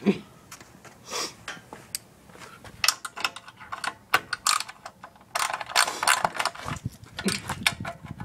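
Hand tools and metal parts of a home-built supercharger clicking and rattling in irregular bursts as the assembly is worked on. A sharp knock comes at the start, and the clatter gets busier from about three seconds in.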